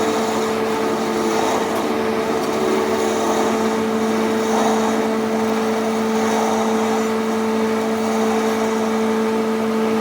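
A motor-driven machine running steadily, with a constant hum over a noisy whirr.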